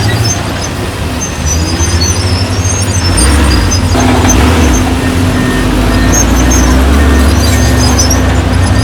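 Heavy diesel construction machinery engine running at a steady loud level. It grows louder about three seconds in.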